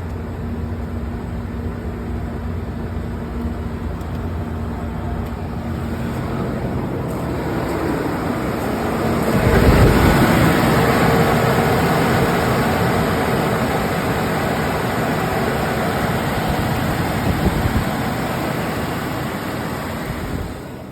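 1989 Toyota 4Runner's engine idling shortly after a cold start. It grows louder about halfway through and stays louder until it drops away near the end.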